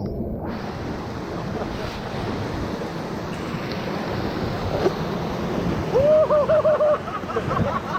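Whitewater of a river rapid rushing and splashing around a raft. About six seconds in, a person gives a wavering yell that lasts about a second.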